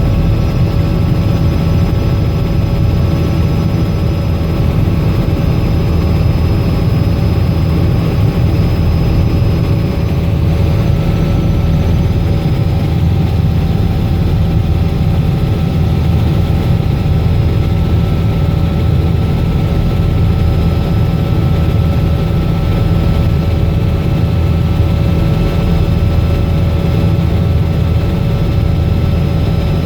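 Robinson R66 helicopter in flight: the steady drone of its Rolls-Royce RR300 turbine engine and rotor, a constant low rumble with a steady whine over it.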